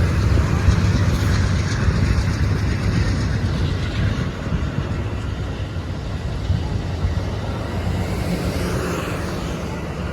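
Passenger train rolling past, a steady rumble that slowly fades.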